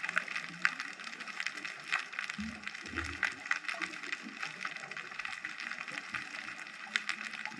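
Underwater ambience picked up by a GoPro in its housing: a steady crackle of many small clicks and pops, with a few sharper clicks and two short low bursts of sound about two and a half to three seconds in.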